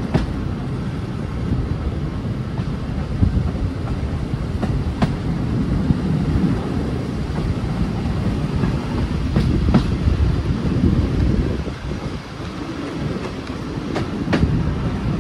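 Train running slowly on jointed track: a steady low rumble, with wheel clicks in close pairs about every four to five seconds as the wheels cross the rail joints.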